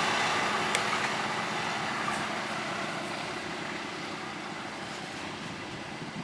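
A passing train's running noise fading steadily as it moves away, with a steady low hum beneath and a sharp click about a second in.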